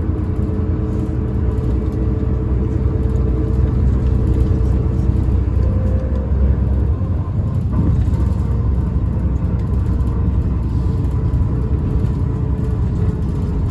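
Tokyu Bus H854 running, heard from inside the cabin: a low engine rumble with a steady whine from a motor, the abnormal motor noise this bus is known for.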